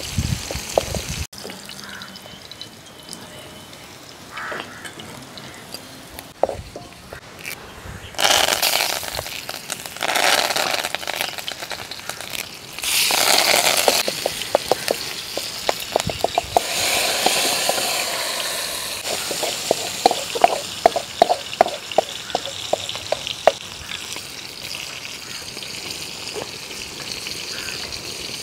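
Sliced shallots and curry leaves frying in hot oil with mustard seeds for a curry tempering, a steady sizzle that surges louder several times. A wooden spatula scrapes and knocks against the metal pan, with a run of quick clicks in the second half.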